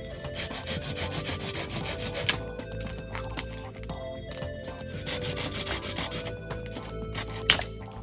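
Rough, rasping scraping strokes, in two spells, over quiet background music, with one sharp click near the end.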